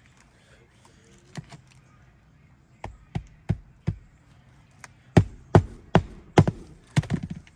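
Hand hammer driving roofing nails under a lifted asphalt shingle: a couple of light taps, then groups of sharp strikes, the loudest in the second half, ending in a quick run of blows.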